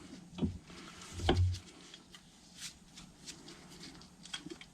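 Light clicks and taps of small carburettor parts being handled and worked loose, with a brief louder, lower knock about a second in.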